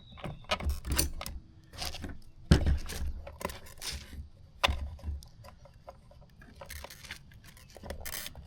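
Hands handling small plastic tail-light parts and tools on a workbench: irregular clicks, taps and rustles, with a sharper knock about two and a half seconds in.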